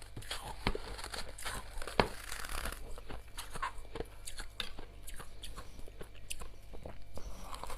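Soft freezer frost being bitten and chewed close to the microphone: a dense, irregular run of small crunches and crackles, with one sharper crunch about two seconds in.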